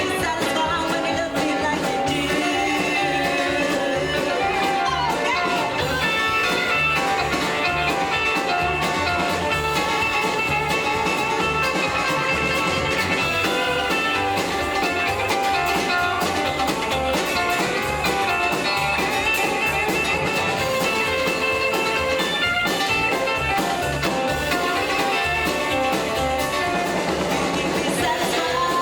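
Live rockabilly band playing a song with a steady beat.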